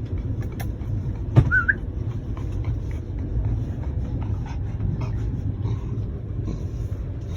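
Steady low rumble of a train carriage interior. About a second and a half in there is a sharp click, then a brief high squeak.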